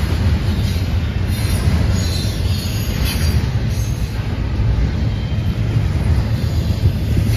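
Double-stack intermodal freight train's well cars rolling past, a steady loud rumble of steel wheels on rail, with faint brief high squeals now and then.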